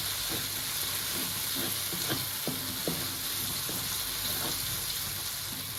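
Curry paste of curry powder and water sizzling in hot oil as it is stirred in the pan, with a few short scrapes of the utensil about two to three seconds in. This is the stage of frying the paste until the oil separates.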